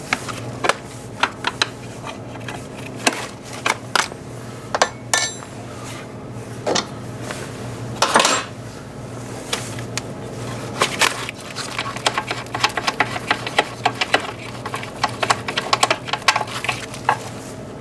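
Metal hand tools clicking and clinking on an engine's alternator fasteners: a 17 mm wrench or ratchet working nuts loose. Scattered knocks at first, then quick runs of clicks in the second half, over a steady low hum.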